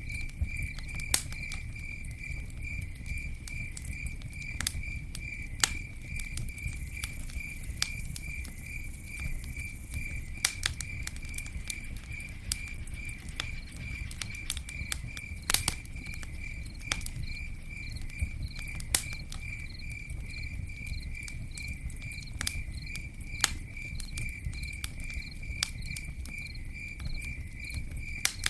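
Campfire burning: crackling with scattered sharp pops over a low rumble. A cricket chirps steadily about twice a second throughout, and a high thin insect buzz joins for a few seconds about a quarter of the way in.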